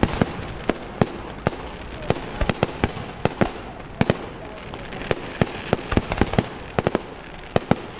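Aerial fireworks going off: a string of sharp bangs, irregular and sometimes in quick clusters, over a steady crackle.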